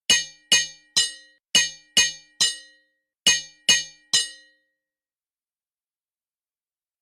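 Hammer striking an anvil: nine sharp metallic clangs, each ringing briefly, about two a second with a short pause after the sixth.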